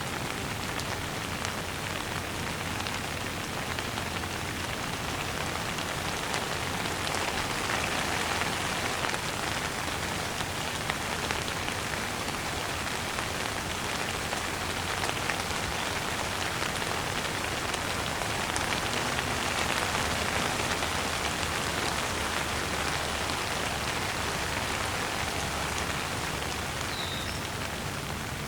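Steady rain falling on a surface, a dense even patter of drops that swells slightly a couple of times.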